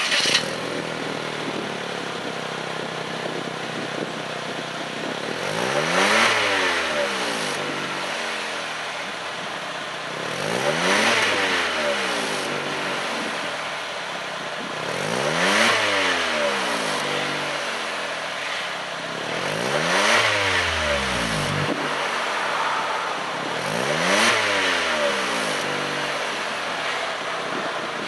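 Exhaust of a Daihatsu Move Canbus turbo's 660 cc three-cylinder KF engine through a WirusWin compact aftermarket muffler: the engine starts with a sharp burst, idles steadily, then is revved and let fall back five times, each rev rising and dropping over about two seconds.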